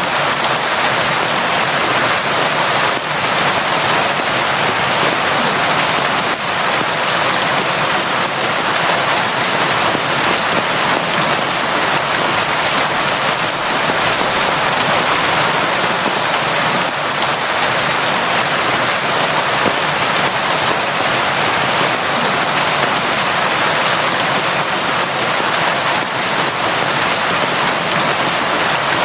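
Steady, constant heavy rain: a dense even hiss of drops pattering on a surface, unbroken and without let-up.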